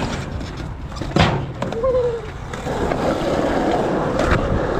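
Skateboard rolling over concrete, with a sharp clack of the board about a second in and another lighter clack near the end.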